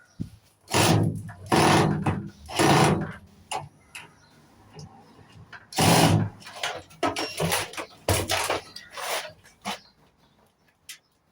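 Short bursts of a power drill-driver working screws out of a microwave oven's casing, four or five runs of about half a second each, with clicks and metal knocks of parts being handled between them.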